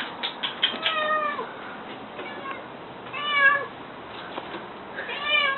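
Domestic cat meowing three times, each meow a short bending call about a second or two apart. A quick run of short clicks comes just before the first meow.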